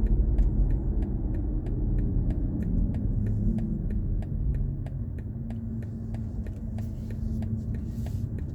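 Low, steady rumble of wind and road noise from a BMW i4 M50 electric car driving along, with a faint hum and a faint regular ticking about four times a second.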